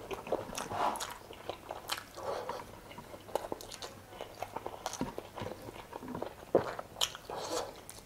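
A person chewing and eating spicy chicken adobo in coconut milk with rice, with irregular wet mouth clicks and smacks.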